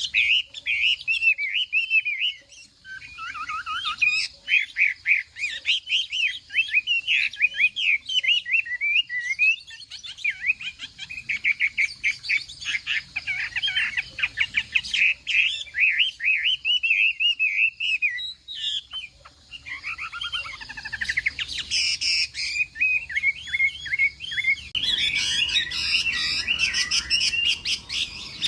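Chinese hwamei (họa mi) singing a long, varied song of rapid, slurred whistled phrases, with a short lull about two-thirds through and a denser, busier stretch near the end.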